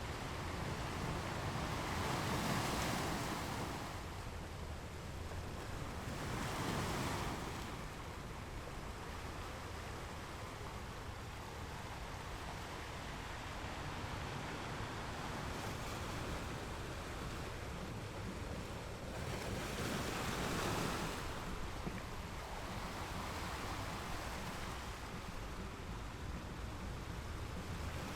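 Ocean waves breaking on rocks, a steady wash of surf with a few louder breakers swelling and fading, about three in all.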